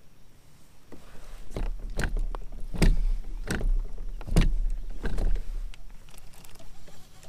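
A run of sharp knocks on a fishing kayak, about one every half to three-quarters of a second for several seconds, over a low rumble.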